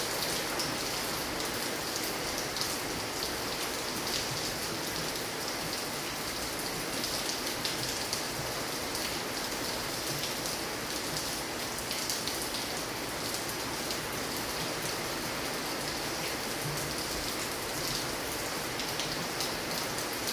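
Steady rain falling, a dense patter of drops striking surfaces.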